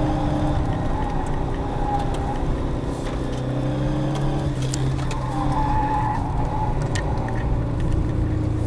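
Car engine running from inside the cabin as the car drives a winding uphill road: a steady low engine note whose pitch shifts around five seconds in, with a few light clicks.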